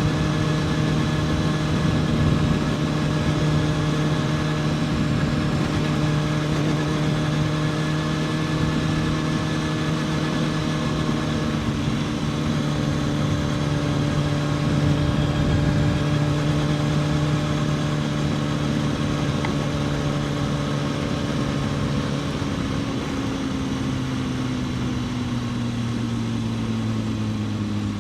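Kawasaki ZX-6R inline-four engine running at a steady cruising speed under rushing wind and road noise. Its note sags gradually lower near the end as the bike rolls off and slows.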